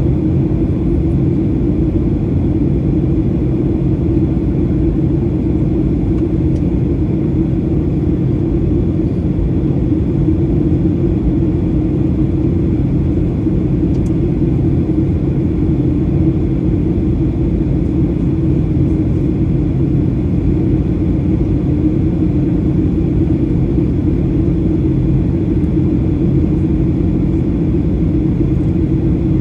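Steady cabin drone of a Boeing 737-800 in flight, heard from inside the cabin: its CFM56 engines and the airflow make an even low rumble with a constant hum in it, unchanging throughout.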